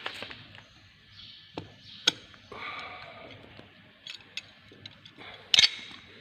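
Irregular sharp metallic clicks and taps of drum brake parts being handled and fitted, with a louder knock about five and a half seconds in.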